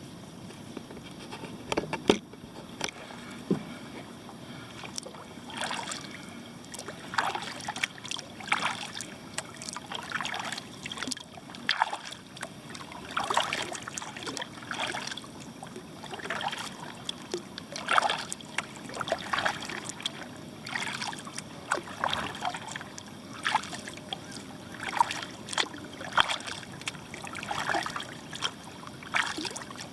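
Kayak paddle strokes on calm lake water: the blades dipping and splashing, with water trickling off them, about one stroke a second. A single sharp knock sounds about two seconds in.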